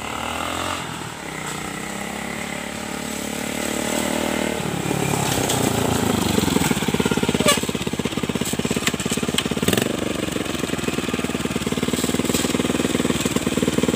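Suzuki Shogun New 110 motorcycle's single-cylinder four-stroke engine. It grows louder as the bike rides up and slows, with the pitch falling around five to six seconds in. It then idles steadily, with a brief rise in revs near ten seconds.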